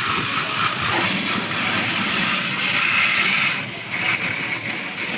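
A steady, loud hissing rush of noise with no clear pitch and no distinct strokes.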